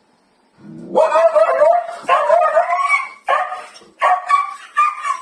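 A dog vocalising loudly at a toy: a short low growl about half a second in, then long calls with a wavering pitch that break into shorter, quicker calls over the last two seconds.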